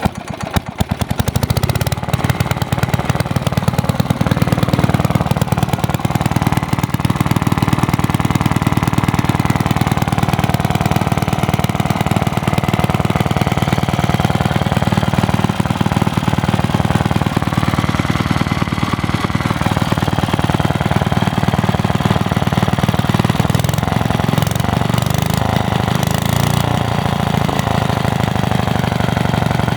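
1955 Villiers Mk10 single-cylinder two-stroke stationary engine firing up right at the start and then running steadily with a fast, even beat, on its first run.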